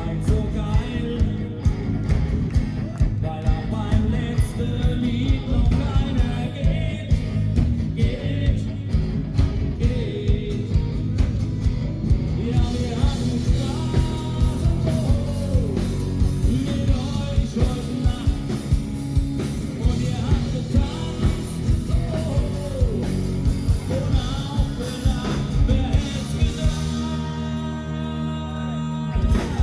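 Live band playing an upbeat song with a lead singer over drums, bass and guitar, on a steady beat. Near the end the drums stop for a couple of seconds under a held chord, then the beat comes back.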